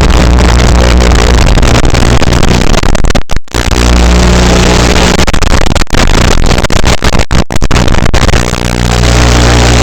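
FPV drone motors and propellers running hard, a loud, distorted hum with wind-like noise, cutting out abruptly for a moment a few times.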